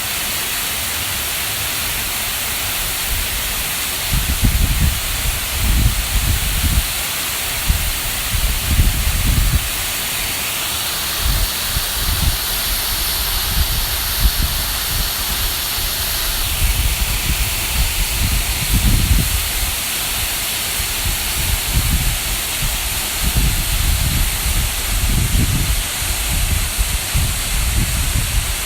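Waterfall pouring steadily, a constant rushing hiss. Low rumbling buffets on the microphone come and go several times.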